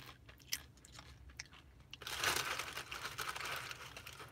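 Close-up crunching of chips being chewed, in short crisp clicks, then a longer crinkling rustle from about halfway through.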